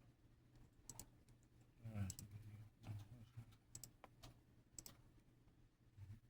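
Faint, scattered light clicks and taps over a steady low hum, with a short sliding sound about two seconds in that is the loudest moment.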